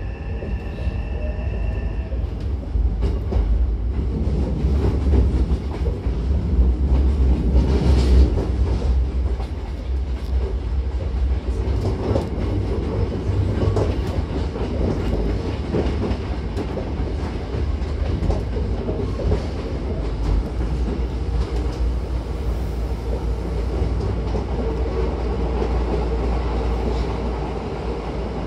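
Hankyu 9000 series electric train running between stations, heard inside the car: a steady low rumble of wheels and running gear with clicks over rail joints. A high steady whine sounds for the first two seconds, and the rumble is loudest a few seconds in.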